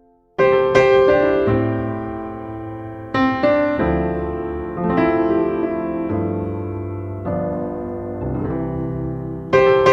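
Piano music: chords struck about every two seconds and left to ring and fade between strikes.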